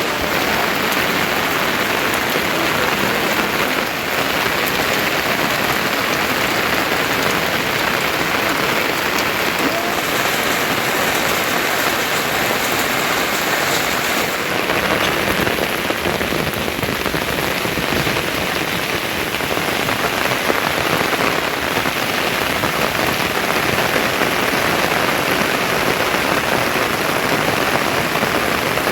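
Heavy monsoon rain falling steadily on surfaces, a dense, even hiss.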